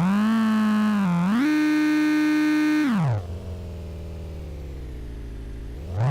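Mazda engine in a VAZ 2104 being free-revved. It rises from idle, dips briefly about a second in, climbs higher and is held, then drops back to idle a little after three seconds. It idles steadily until another rev starts near the end.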